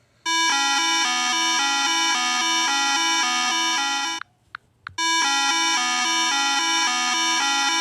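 Electronic siren-style warning tone that steps rapidly back and forth between two pitches. It plays for about four seconds, stops briefly, then repeats.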